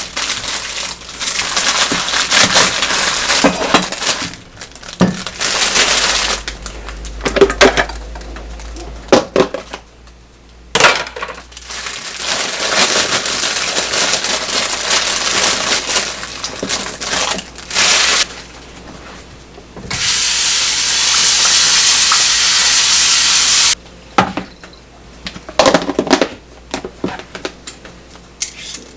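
Kitchen work sounds: dishes, utensils and wooden items knocking and clinking, with stretches of rushing noise. Late on, a steady loud hiss lasts a few seconds and then cuts off suddenly.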